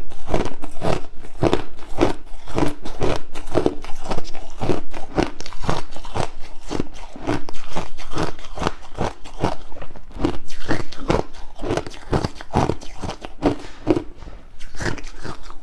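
Crushed ice being bitten and chewed close to the microphone: loud, rhythmic crunching, stroke after stroke.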